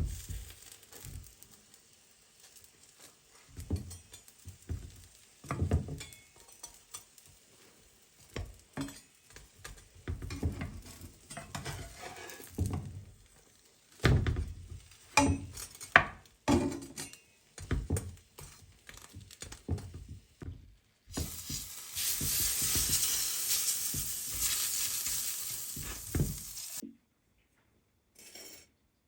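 Utensils knocking and scraping against a pan or dishes in irregular bursts, then, about two-thirds of the way through, food frying in a hot pan with a steady sizzle for about five seconds that cuts off suddenly.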